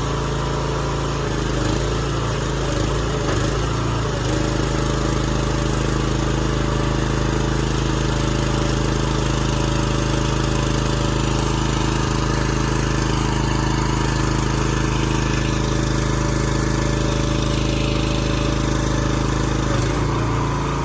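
Pack-Rat delivery truck's engine running at a steady speed while the truck loads a moving container.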